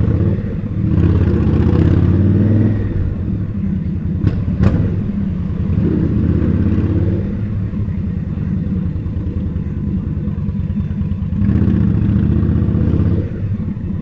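Indian Scout's V-twin engine running under the rider, louder twice as the bike pulls away, about a second in and again near the end. Two sharp clicks a little after four seconds in.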